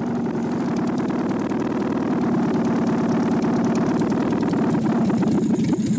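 Rebuilt car engine with homemade lathe-turned steel piston rings idling on its own. The note is steady, then wavers near the end as the engine falters. The idle is set too low, so it keeps stalling.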